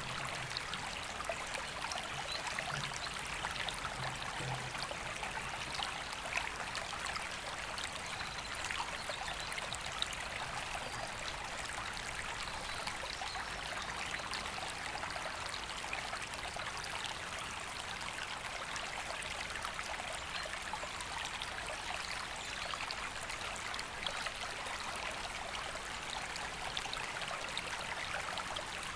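A woodland river flowing over stones, a steady rushing and trickling of water.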